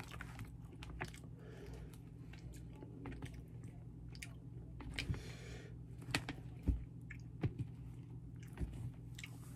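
A person chewing sushi close to the microphone, with scattered soft clicks and mouth smacks over a steady low hum.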